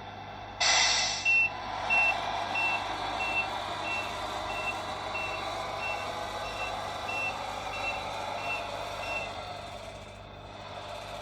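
Tamiya Mercedes-Benz Actros RC truck's sound unit: a short, loud air-brake hiss, then a steady run of reversing beeps, about three every two seconds, over the simulated engine running. The beeps stop near the end.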